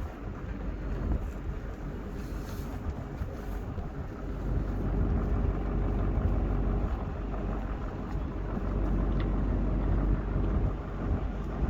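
Strong snowstorm wind buffeting the microphone: a steady low noise that grows louder about four seconds in.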